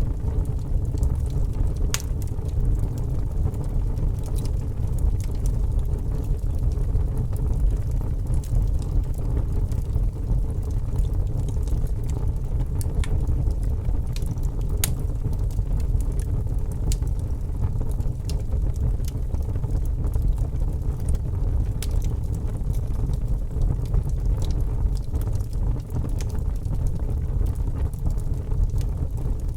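Fire burning with a steady low rumble, and irregular sharp crackles and pops scattered through it.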